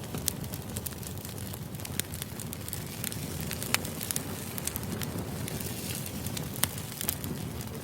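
Crackling fire: a steady low rush with irregular sharp pops and crackles, several each second.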